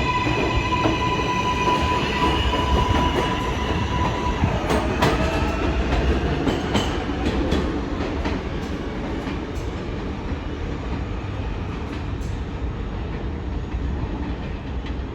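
R188 subway train pulling out: a steady whine from the propulsion motors turns into tones rising in pitch as it accelerates, while the wheels click sharply over the rail joints, and the sound fades away over the last several seconds.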